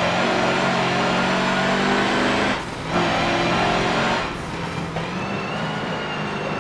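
Mercedes-Benz racing truck's engine running hard under load, with a brief drop in sound about two and a half seconds in before it picks straight back up, and a quieter, lighter stretch a little over four seconds in.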